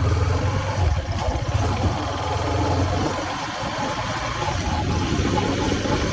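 Husqvarna motorcycle engine running with a steady low pulsing, easing off a little around the middle.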